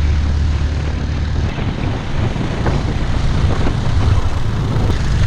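Motorbike on the move: engine running under steady wind rush on the microphone. The low rumble shifts about a second and a half in.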